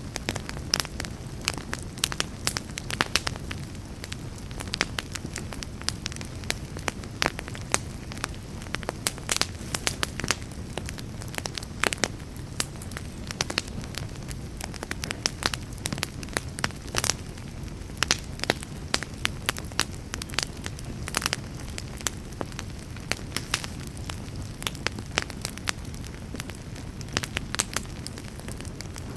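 Wood campfire crackling, with many irregular sharp pops and snaps over a low, steady rumble.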